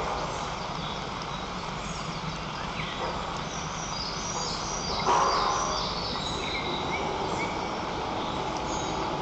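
Outdoor background noise with small songbirds chirping and singing. About five seconds in there is one brief, loud, pitched call.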